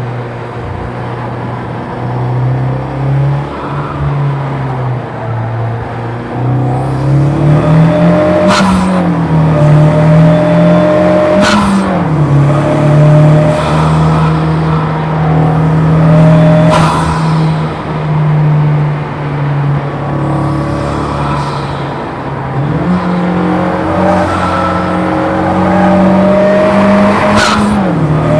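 Honda Civic FK8 Type R's turbocharged 2.0-litre four-cylinder with bolt-on modifications, driven hard on track: the engine note climbs under acceleration and drops sharply at gear changes several times, with sharp cracks at some shifts. Tyres squeal at times through the corners.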